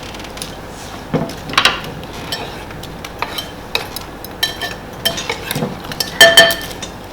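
Kitchen utensil knocking and scraping against a mixing bowl as strawberries are stirred into cream and crushed meringue, with a few sharper ringing clinks about six seconds in.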